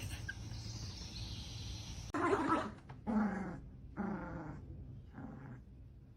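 A dog vocalising in four short throaty calls, roughly a second apart, several of them falling in pitch.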